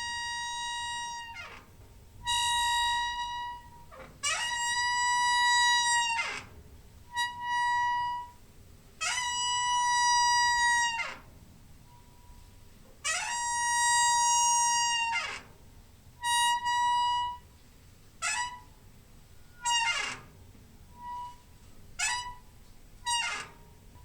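Door hinge squeaking over and over, about a dozen drawn-out creaks of one steady, high pitch that slide in and out. The longer creaks come first, and they get shorter toward the end.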